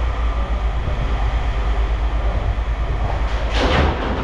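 Steady low mechanical rumble, like heavy machinery running, with a short noisy clatter near the end.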